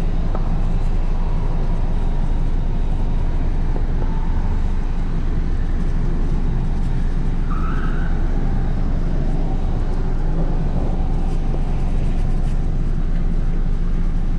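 A steady, loud low rumble, even throughout, with no speech over it.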